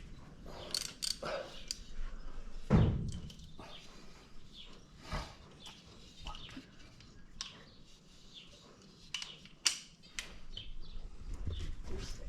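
Scattered clinks and knocks of hand tools and metal brake parts being handled, with a heavy thump about three seconds in and a sharp clack near ten seconds.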